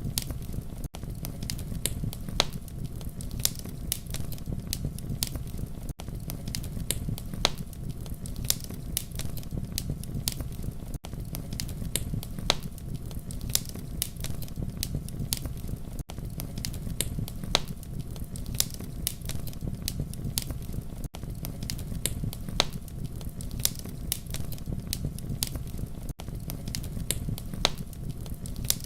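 Campfire crackling: a steady low rumble of burning wood with frequent irregular sharp pops and snaps. It is a short recording looped about every five seconds, with a brief drop in level at each seam.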